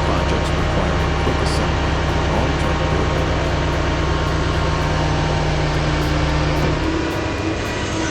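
A large engine running steadily, with a dense rushing noise and a constant low hum that drops away about seven seconds in.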